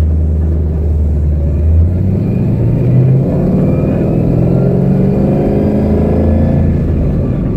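Mustang GT's 5.0 Coyote V8 heard from inside the cabin: a steady low drone for about two seconds, then the revs climb steadily as the car accelerates, levelling off near the end.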